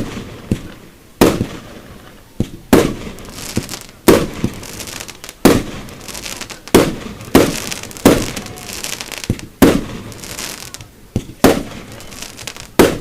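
Aerial firework shells bursting at a fireworks display: about a dozen loud bangs in quick, uneven succession, each trailing off in echo.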